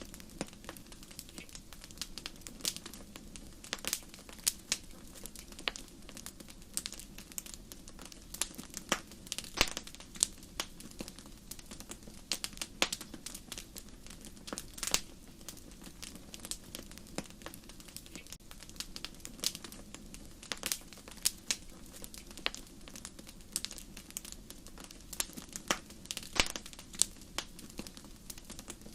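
Wood fire in a fireplace crackling: irregular sharp pops and snaps, several a second, over a steady low rush of the flames.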